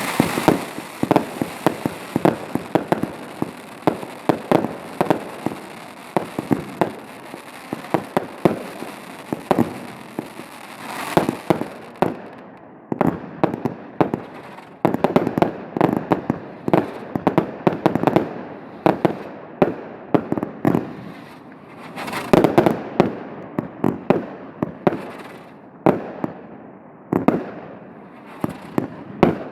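Aerial fireworks bursting in rapid succession, many sharp bangs a second with an echo after each. A hissing haze carries under the bangs in the first dozen seconds, and denser, louder clusters of bangs come in waves later on.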